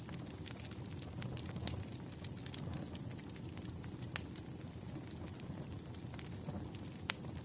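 Wood fire crackling: irregular sharp snaps and pops, several a second, over a low steady rumble of burning logs, with one louder pop about four seconds in.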